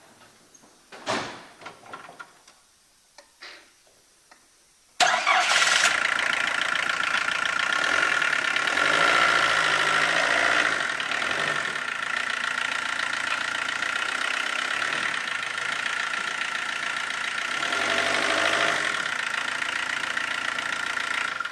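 Vauxhall Vectra's 1.7 Isuzu turbo diesel engine, after a few faint clicks, comes in suddenly about five seconds in and runs steadily with a high whine, swelling slightly twice. It is the first run after a clutch replacement.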